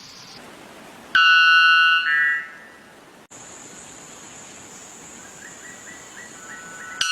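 White bellbird calling: one very loud, ringing two-part call, the second part higher, about a second in, with the next call starting right at the end. Between calls a steady background hiss with a thin high whine.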